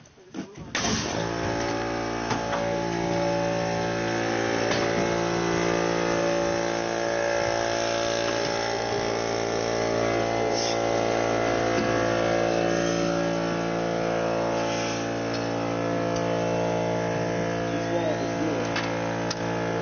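A motor or engine running steadily at constant speed, a continuous even drone that starts about a second in, with a few faint clicks over it.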